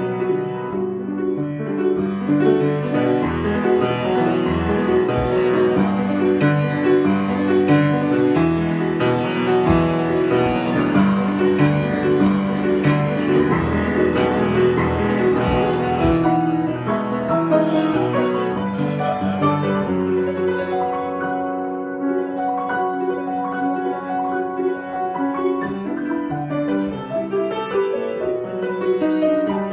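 Piano improvisation: several notes and chords sounding together and ringing on, in a slow, flowing style.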